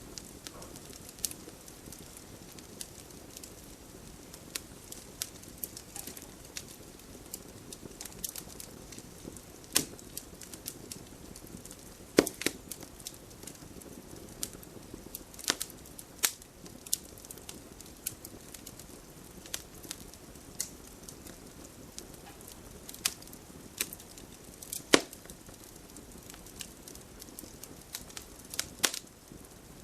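Wood fire crackling in a fireplace: a low steady hiss of burning, broken by irregular sharp pops and snaps, a few of them louder.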